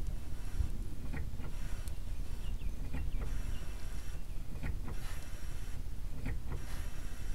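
Brake pedal of a Suzuki Wagon R being pumped about four times, roughly a second and a half apart, each stroke with a squeaky scraping sound and small clicks between. The pumping tests calipers that the owner believes are seized with rust.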